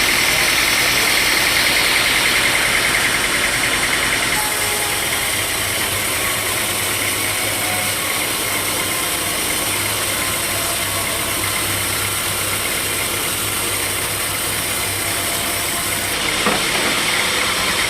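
Sawmill saw and its drive motor running steadily. The high hiss drops away about four seconds in and comes back near the end.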